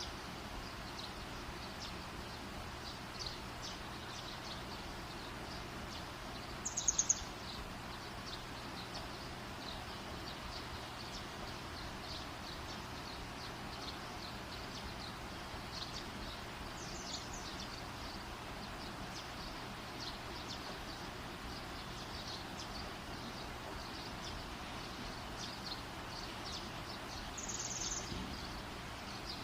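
Campfire burning with a steady hiss and faint, quick high ticking, and a short high chirp about three times, roughly ten seconds apart.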